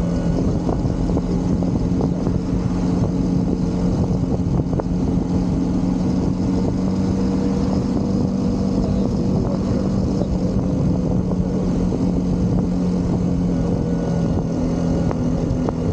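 Single-cylinder motorcycle engine running steadily at cruising speed, its pitch holding almost level throughout, with rushing wind and road noise underneath.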